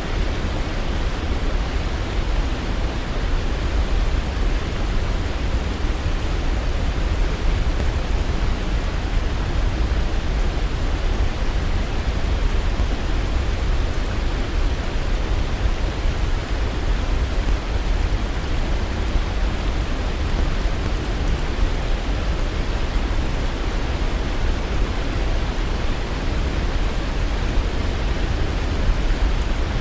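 Waterfall: a steady rush of falling water with a strong deep rumble underneath, unchanging throughout.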